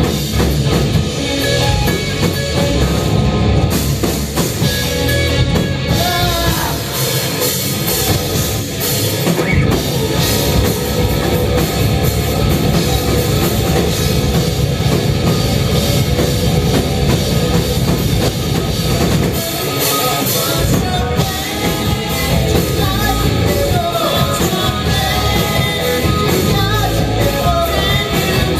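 Rock band playing live, with a drum kit and singing; the music cuts in suddenly at the start after a brief drop.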